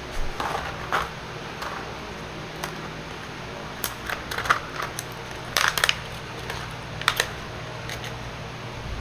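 Irregular light clicks and taps from hands handling wires and small parts, bunched into quick flurries a few seconds in. A steady low hum runs underneath.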